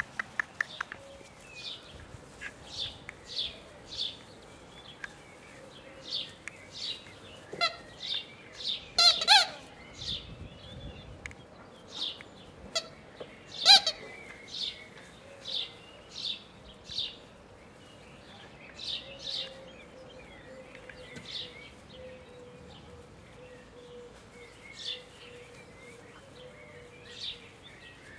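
Short high chirps repeating every half second to a second, like a small bird calling, with two louder, sharper squeals about nine and fourteen seconds in.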